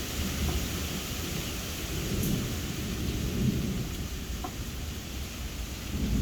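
Thunder rumbling continuously, swelling and fading, over the steady hiss of falling rain.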